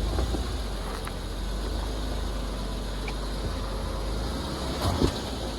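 Jeep Wrangler engine running at low revs while crawling over rock, a steady low rumble, with a few sharp knocks near the end.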